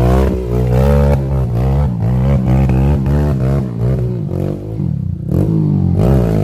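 Trail motorcycle engines running and being revved in quick, uneven blips, their pitch wavering up and down.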